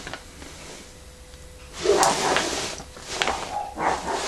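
Packaging being handled during an unboxing: after a quiet start, a run of rustles with a sharp click about two seconds in, and more rustling near the end.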